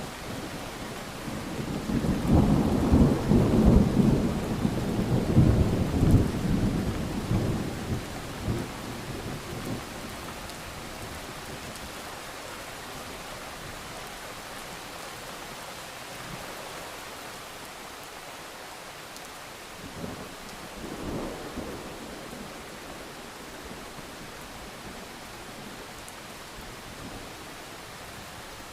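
Steady rain with a long roll of thunder that builds about two seconds in and dies away over several seconds, then a shorter, fainter rumble of thunder later on.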